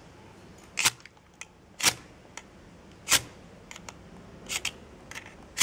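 Ferrocerium rod (firesteel) being struck with a scraper to throw sparks onto fatwood tinder: a series of short, sharp scrapes, about one a second.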